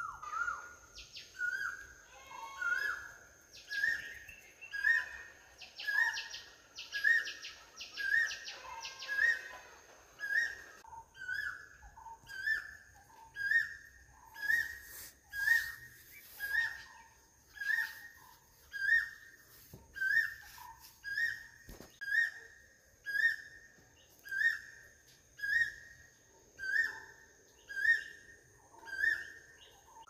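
A bird-like call, a short whistled note with a quick upward hook, repeated evenly about once a second. A steady thin high tone runs behind it, and other chirping calls are mixed in over roughly the first ten seconds.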